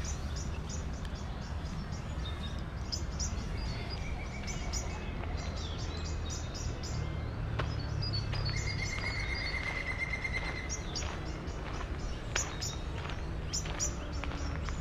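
Birds chirping in many short, high, repeated calls, with one longer trilled note about eight seconds in, over a steady low rumble of the city.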